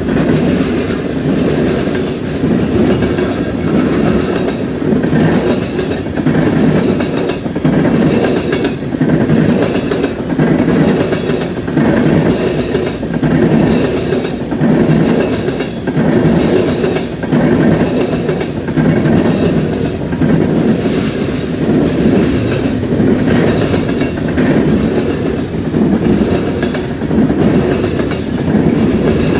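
Freight train cars (gondolas, tank cars and covered hoppers) rolling past close by with a steady low rumble. The wheels clack over the track in a rhythm of roughly one beat a second.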